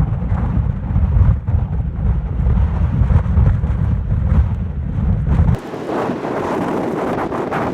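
Gale-force wind buffeting the microphone: a loud, gusting low rumble. About five and a half seconds in, it switches abruptly to a thinner, hissing rush without the low rumble.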